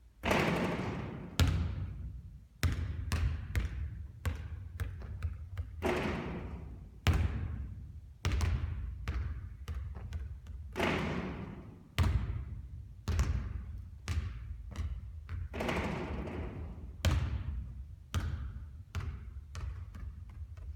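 Basketball bouncing on a court floor in a run of repeated thuds. About every five seconds comes a louder hit at the hoop from a three-point shot, each one fading out over a second or so.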